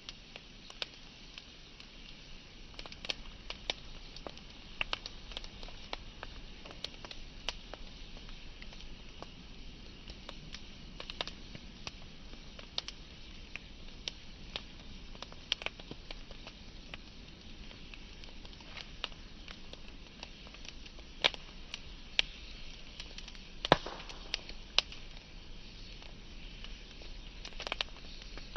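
Wood fire burning with a steady hiss and irregular crackling, sharp pops and snaps from the burning logs, the loudest a few seconds apart near the end.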